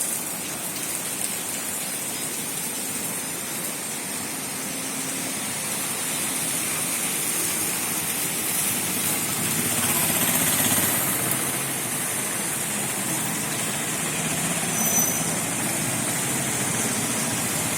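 Steady rain with a motor vehicle going by on the wet road. Its engine and tyre hiss swell to a peak about ten seconds in, and a low engine rumble carries on after.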